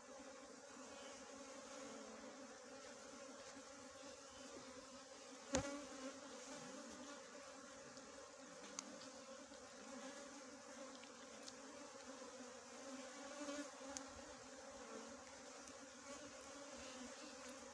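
Small honeybees buzzing as a steady, faint swarm drone, with one sharp knock about five and a half seconds in and a few fainter clicks later.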